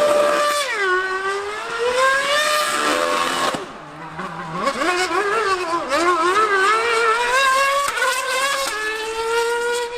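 Formula One car and 1000cc superbike racing past at high revs, the engine notes rising and falling and dropping in pitch with gear changes. It goes briefly quieter about four seconds in.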